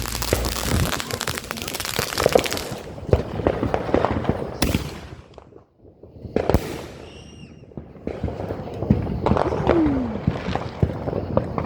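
Consumer fireworks going off: dense crackling for the first few seconds, then several sharp bangs, a short falling whistle about seven seconds in, and more crackling and pops toward the end.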